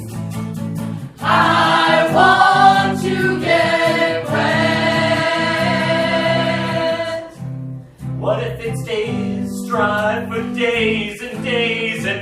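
Live singing by several voices in long held notes over steady low accompanying chords. The singing breaks off briefly about two thirds of the way through, then resumes.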